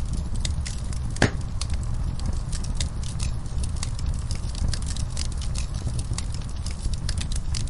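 Fire in a fireplace crackling: many small, irregular pops over a steady low rumble, with one louder pop about a second in.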